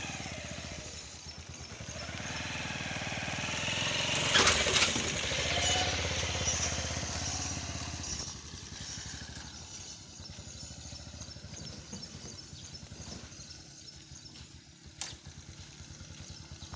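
An engine running with a fast, even pulse, growing louder to a peak about four to five seconds in and then fading back; a brief sharp click near the end.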